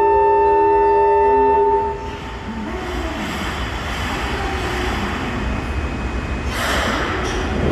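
Held electronic chime tones that stop about two seconds in, followed by a train running on the rails, with a louder rush of noise near the end.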